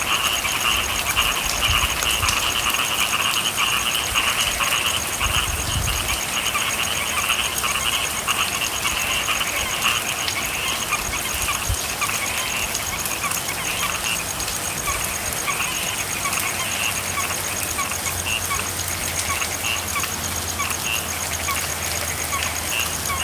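A chorus of frogs calling over the steady hiss of falling rain. The calls are dense at first and thin into separate, repeated pulsed calls in the second half.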